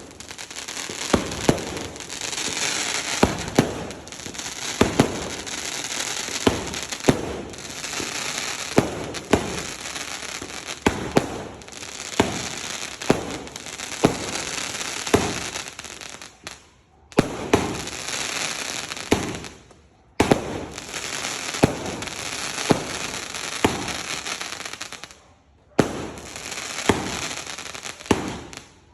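Consumer firework cake (Dragon Fireworks 'Tree of Life', 16 shots) firing shot after shot. Each shot is a sharp bang followed by a dense crackling sizzle, with a few brief pauses between volleys.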